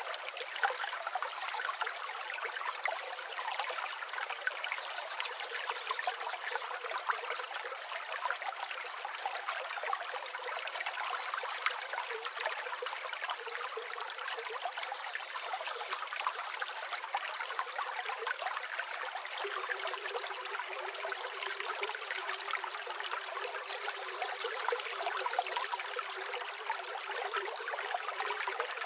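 River water flowing, a steady babbling rush without breaks.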